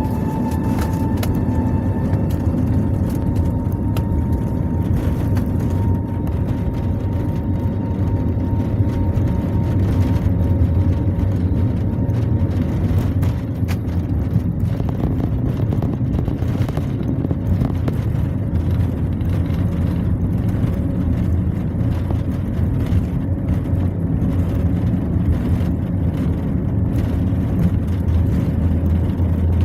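Steady low rumble of an airliner's cabin in flight, with a thin steady engine whine that fades about halfway through.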